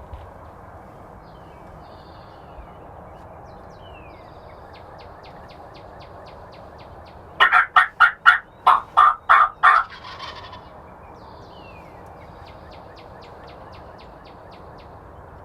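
Wild turkey gobbling once, a loud rapid rattle of about eight pulses lasting a couple of seconds, about halfway through. Small songbirds chirp and trill faintly.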